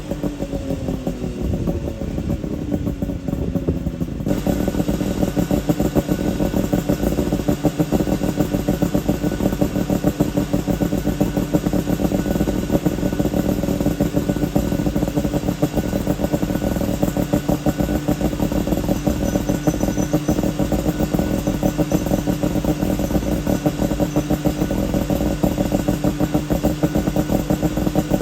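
Suzuki Jimny SJ30's two-stroke three-cylinder engine running through an APIO Matsumoto-style expansion chamber and muffler. Its note falls in pitch over the first few seconds; about four seconds in the exhaust sound turns brighter and then holds at a steady pitch.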